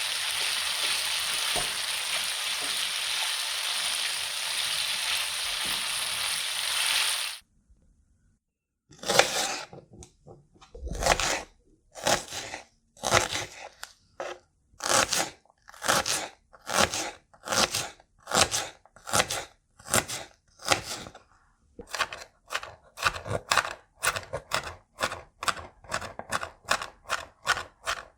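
A steady loud hiss for about the first seven seconds, then a kitchen knife cutting through a crisp vegetable on a cutting board: single crunchy cuts about a second apart at first, quickening to about two a second near the end.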